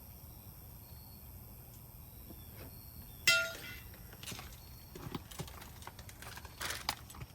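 Metal grill parts being handled: one sharp metallic clank that rings briefly about three seconds in, then scattered light knocks and rustles.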